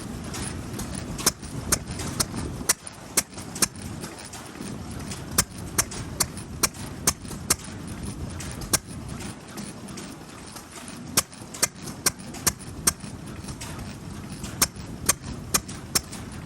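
Vintage stationary engine running, its exhaust giving sharp pops at uneven intervals over a low steady rumble.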